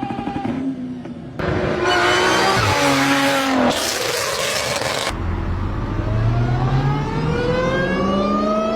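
Car engines accelerating hard in several short clips cut together, each with a high whine over the engine; in the last few seconds one car's engine note and whine rise steadily in pitch as it accelerates.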